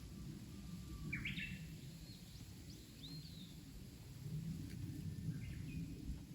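Small birds chirping and calling, in short whistled phrases about a second in, again around three seconds, and once more near five seconds, over a steady low rumbling background noise.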